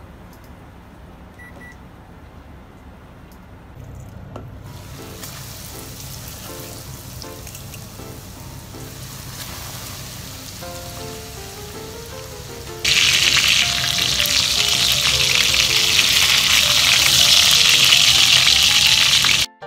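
Breaded pork cutlets frying in hot oil in a pan, a steady sizzle that comes in after a few quiet seconds and turns much louder about two-thirds of the way through.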